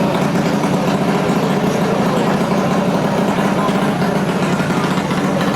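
High-horsepower drag mini bike engine, around 25 horsepower, running on a dyno, loud and steady at one pitch with a fast, rough pulse.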